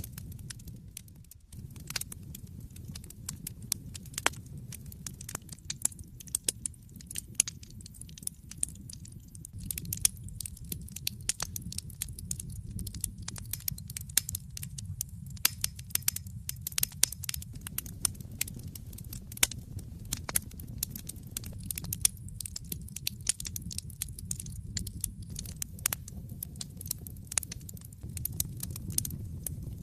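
Wood fire in an open fireplace crackling: a dense, irregular run of sharp pops and snaps over a steady low rumble of the flames.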